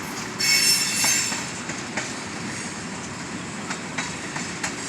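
Train rolling past, with a brief high metallic wheel squeal about half a second in and scattered clicks of wheels over the rails under a steady rumble.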